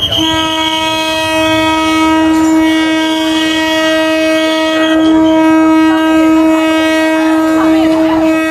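Train horn sounding one long, steady blast that starts right away.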